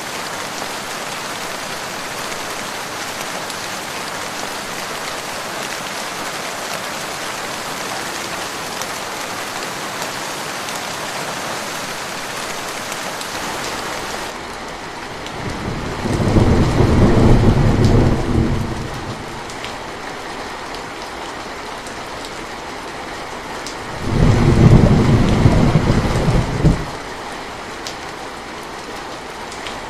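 Steady rain pattering, with two loud, low rolls of thunder of about three seconds each, the first a little past halfway and the second some eight seconds later.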